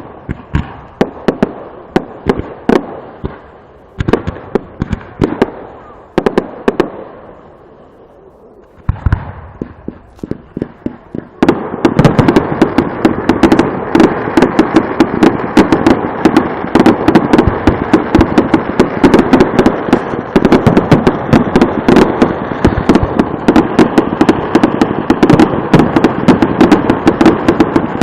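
Fireworks going off: separate bangs and crackles at first, then from about eleven seconds in a dense barrage of rapid bangs and crackling that doesn't let up.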